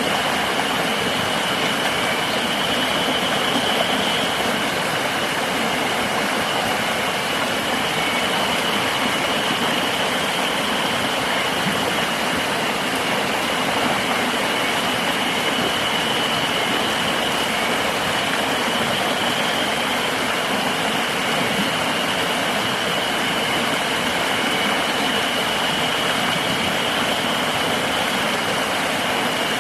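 River water rushing steadily, with a continuous high-pitched insect drone over it.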